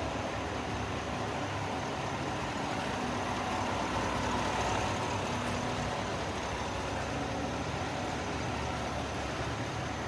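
Chevrolet Silverado 1500 pickup's engine idling steadily, swelling slightly about four seconds in.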